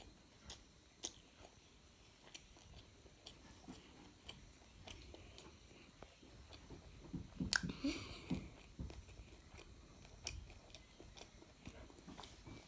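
A child chewing a mouthful of fried pork noodles with her mouth closed: faint chewing with small scattered clicks. A louder sharp click and short rustle about halfway through.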